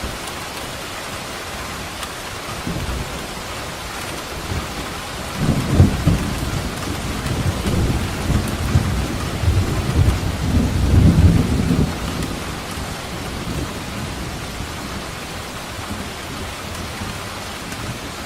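Steady heavy rain hissing, with a long rolling rumble of thunder that builds a few seconds in, is loudest for several seconds in the middle, and dies away near the end.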